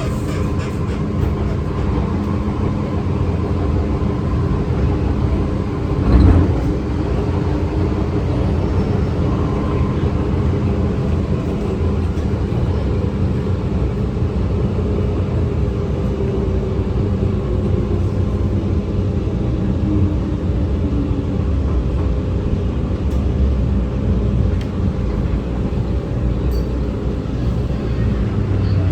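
MTR Tsuen Wan Line M-Train running on the line: a steady rumble of wheels on rail with a steady hum of several low tones, and a single thump about six seconds in.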